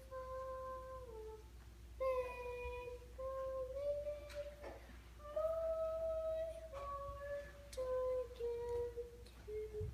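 A child singing a slow melody in long held notes, stepping from one pitch to the next.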